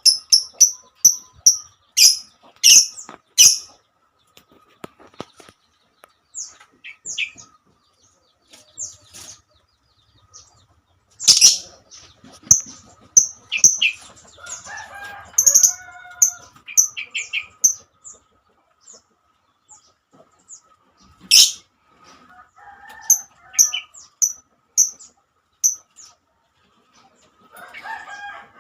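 Lovebird calling: runs of short, sharp high-pitched chirps, with a few louder shrill screeches (around two to three seconds in, about eleven seconds in, and about twenty-one seconds in).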